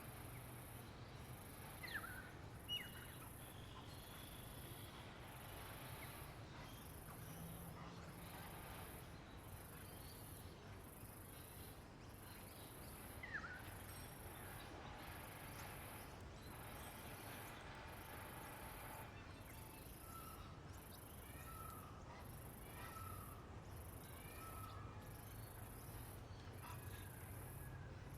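Faint outdoor nature ambience: a high insect buzz pulsing in long, even strokes about every second and a half, with scattered bird calls. There are a few sharp downward-sweeping notes and, later, a run of short repeated notes, over a steady low hum.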